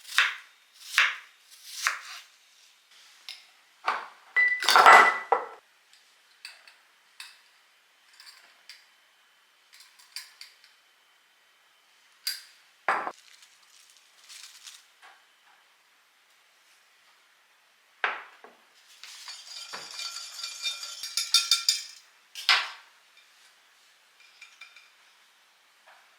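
Kitchen dishes and utensils clinking and knocking during baking: scattered separate clinks and taps, one of them louder and ringing about five seconds in, and a denser run of rattling clinks past the middle.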